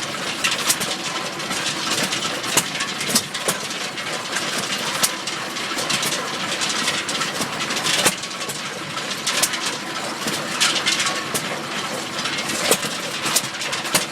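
1925 Stover KA 2 HP single-cylinder hit-and-miss engine running, firing with sharp pops at irregular intervals and coasting between them.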